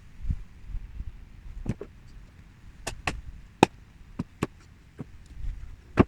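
About seven sharp knocks at uneven intervals, over a low rumble of wind on the microphone.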